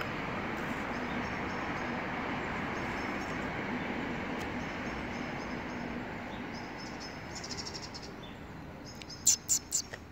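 Small birds chirping over a steady outdoor rush of noise that fades away after about eight seconds, then four quick sharp taps near the end.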